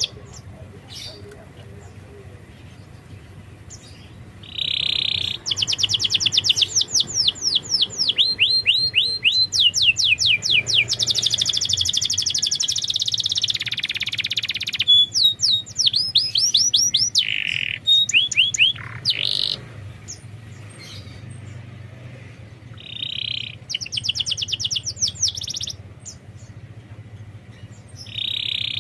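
Domestic canary singing: rapid trills of quickly repeated down-slurred high notes, broken by short buzzy rolls. There is a quiet spell of a few seconds at the start and shorter pauses later on.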